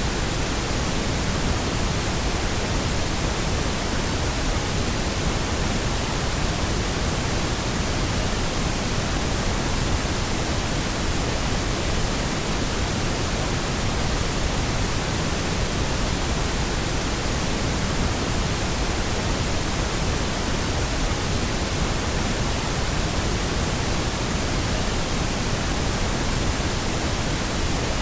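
Pink noise: a steady, even hiss over the whole range from deep rumble to high hiss, with no change in level or character.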